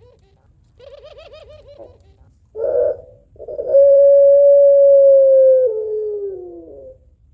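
White puter pelung (barbary dove) cooing. A soft rolling trill comes first, then a short loud coo, then a long held coo that steps down and falls in pitch at the end. This long drawn-out coo is the call the breed is kept for.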